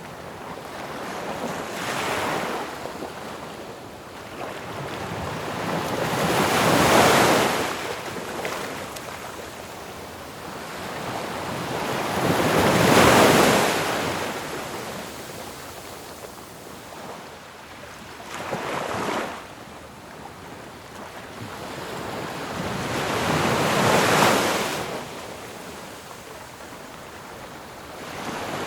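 Ocean waves crashing on a shore, each breaker swelling to a loud rush and then easing off, about one every five to six seconds.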